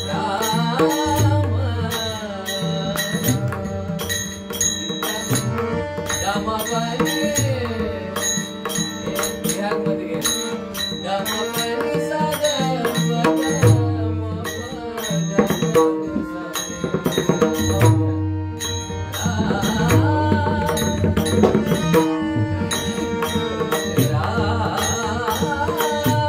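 Marathi devotional bhajan: a classical-style singing voice with gliding ornaments over mridang (pakhwaj) drumming and regular small hand-cymbal (tal) strokes.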